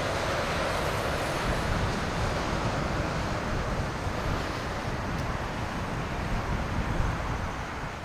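Jet roar of an Airbus A330-200's Rolls-Royce Trent 700 engines after landing, a steady rumble mixed with wind buffeting the microphone, starting to fade near the end.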